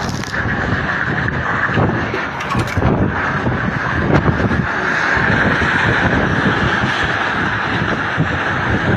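Strong storm wind blowing and buffeting the microphone as a continuous loud rushing noise that swells and eases a little.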